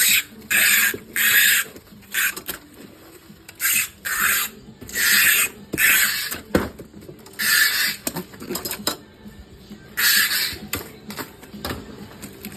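Packing work: about ten short, irregular rasping bursts of material being pulled or rubbed, loud and scratchy, over a faint steady hum.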